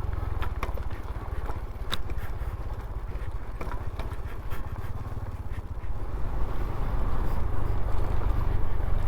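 Honda CT125's small single-cylinder engine running while the bike rides along, under a steady low rumble, with scattered short ticks and scrapes; it gets louder from about six seconds in.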